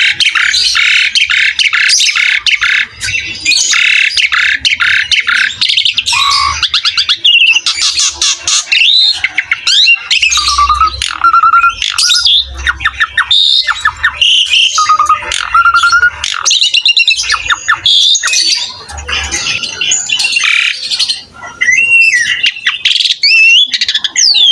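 Asian pied starling (jalak suren) in full, loud song: a continuous, rapid run of harsh squawks and chatters mixed with clear whistled notes and short glides.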